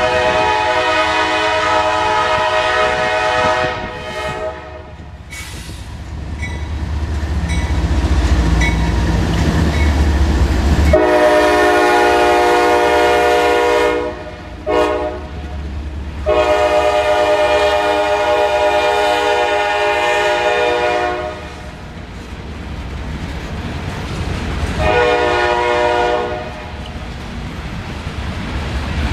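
CSX GE ES44DC diesel locomotive's horn sounding a multi-note chord in a grade-crossing pattern: two long blasts, a short one and another long one, then another short blast near the end. Between the first two blasts the locomotive's diesel engine rumbles, growing louder as the train closes on the crossing.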